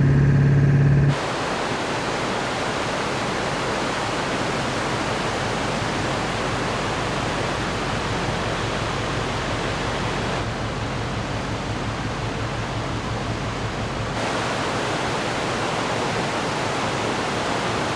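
Rushing river water, a steady full-range roar of the Merced River's flow. It is preceded by the 7.3 Powerstroke diesel truck engine's hum, which cuts off about a second in.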